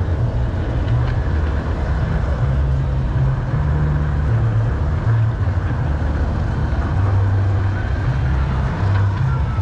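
Garden-scale model train rolling along its track: a steady low rumble of motor and wheels, picked up on board the moving train.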